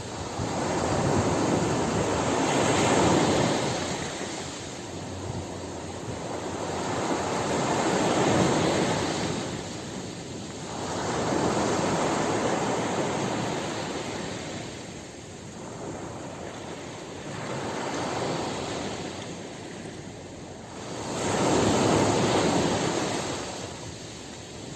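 Ocean surf, waves breaking and washing up the shore. The wash swells and fades about five times, every four to five seconds.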